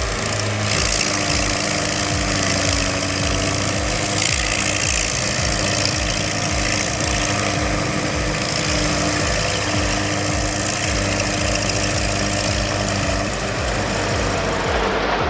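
Heavy machine engine running steadily at an even pace, with a low regular pulse and a steady hiss of work noise over it.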